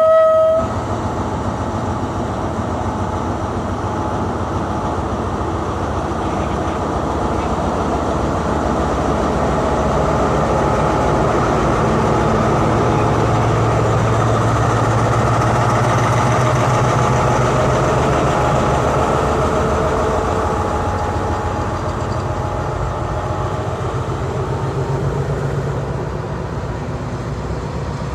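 A diesel-hauled passenger train's horn cuts off about half a second in, then the train runs on with a steady rumble and dense clatter of wheels on the rails as it pulls out of the station. The rumble swells through the middle and eases a little near the end.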